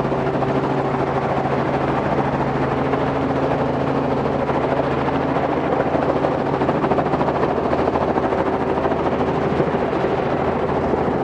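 Robinson R44 helicopter running steadily: a drone from its six-cylinder Lycoming piston engine with rapid, even rotor chop. The engine has lost all oil pressure.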